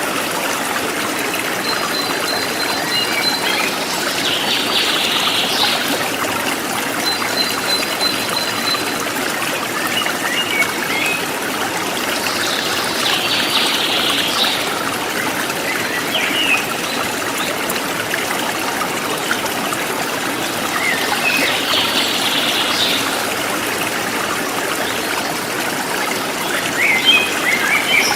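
Forest stream flowing steadily, with birds calling over it: short chirps and quick twittering trills that come every few seconds.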